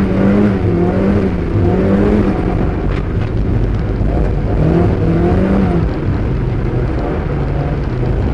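Mazda MX-5 Eunos Roadster's four-cylinder engine revving up and down repeatedly while being driven in a drift, heard from inside the cabin, with steady road noise underneath.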